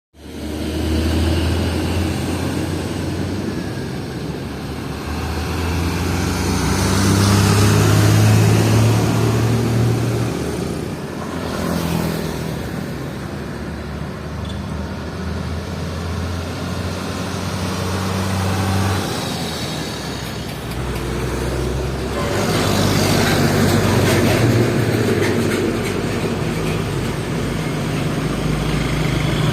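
Heavy diesel trucks running and moving off, with a deep engine note that rises and falls, over the hiss of traffic and tyres. The engine note changes a few times as different trucks pass.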